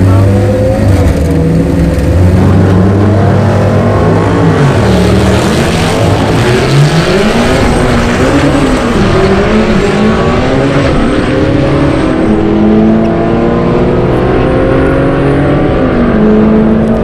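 Turbocharged Honda GSR four-cylinder engine in a Civic hatchback running hard, its pitch rising and falling several times before climbing steadily in long pulls.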